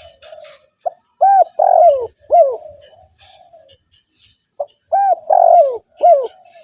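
Spotted dove (tekukur) cooing: two phrases of several arched coo notes, each note falling away at its end, about three and a half seconds apart, with fainter coos between them.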